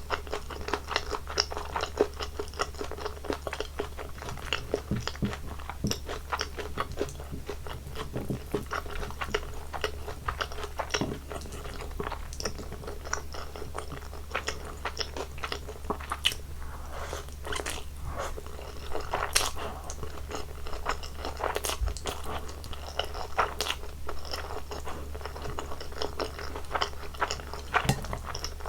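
Close-miked eating sounds: a person chewing and biting food, with crisp crunching and many small, irregular mouth clicks, over a steady low hum.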